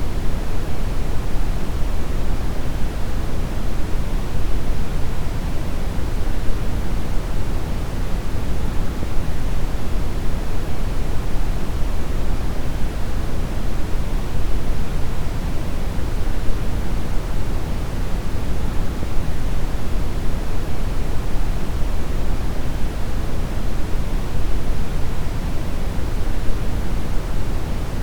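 Synthetic brown noise: a steady, deep rumbling hiss with most of its energy in the low end, unchanging throughout.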